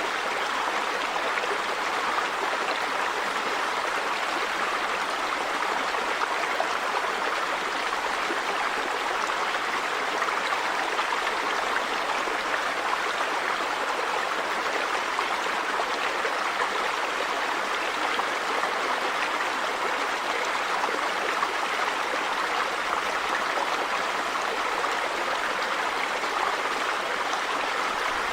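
A river's running water rushing steadily, an even, unbroken rush without breaks or changes.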